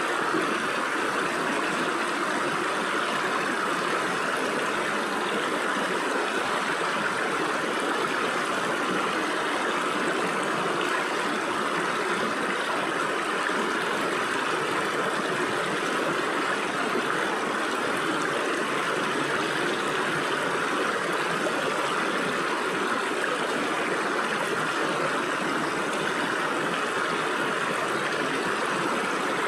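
Stream water flowing and splashing through gaps between rocks, a steady rushing babble with no breaks.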